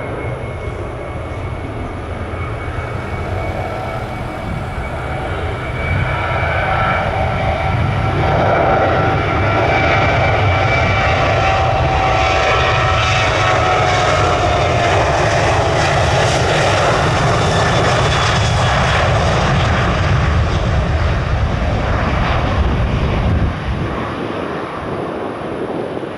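Jet aircraft passing close by on the runway. The engine noise builds, stays loud for about fifteen seconds with a whine that falls in pitch as it goes past, then eases off near the end.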